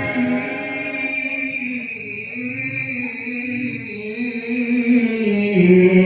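Male qari reciting the Qur'an in melodic tajwid style, drawing out one long, wavering ornamented note that drops to a lower pitch near the end.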